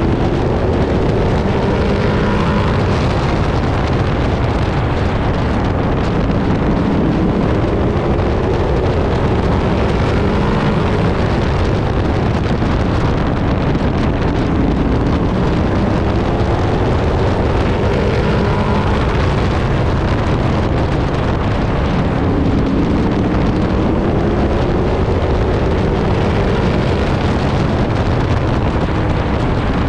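Race truck engine heard from inside the cab under racing load, its pitch rising and falling again and again as it accelerates and lifts around the track, with wind noise over it.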